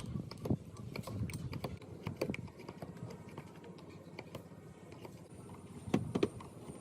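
Irregular light clicks and knocks of metal parts and hand tools being handled during restoration work. A faint high steady tone comes in about five seconds in.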